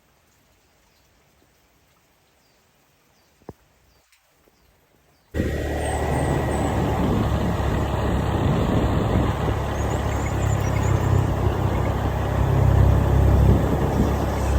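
Near silence with a single faint click, then a sudden jump about five seconds in to loud, steady road-vehicle noise with a deep rumble.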